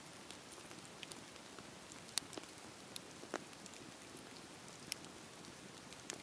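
Wood fire crackling in a fireplace: a faint steady hiss with scattered sharp pops and snaps, a few of them standing out louder.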